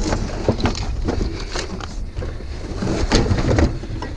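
Heavy scrap water heater being shoved and slid into place, with irregular knocks and clunks over a steady low rumble.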